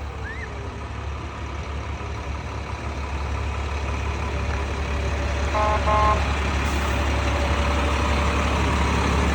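A passing parade vehicle's engine running steadily and slowly getting louder as it approaches, with a quick series of short horn toots about five and a half seconds in.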